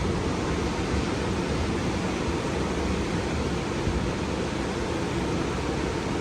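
Ocean surf washing onto a beach: a steady rush of noise without separate, distinct wave crashes.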